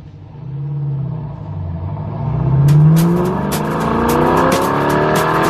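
A car engine revving up, its pitch climbing in rising sweeps, laid into the opening of a song; a steady drumbeat comes in about halfway through.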